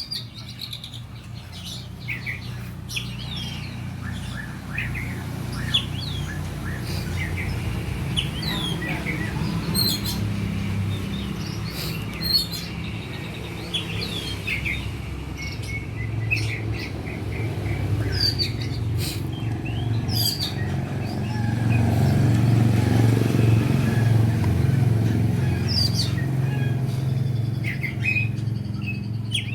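Songbirds chirping and calling in short, quick sweeping notes throughout, over a low rumble that grows louder past the middle.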